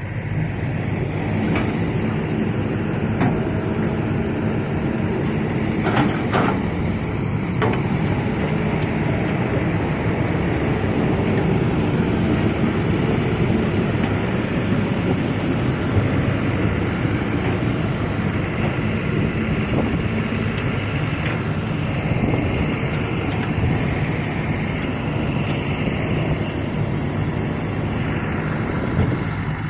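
Excavator's diesel engine running steadily under load, with a few sharp metallic knocks around six and eight seconds in.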